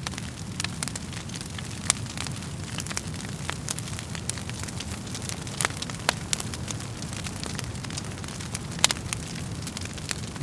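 Wood fire in a fireplace crackling, with irregular sharp pops over a steady low rumble of the flames. The loudest pops come about two, five and a half and nine seconds in.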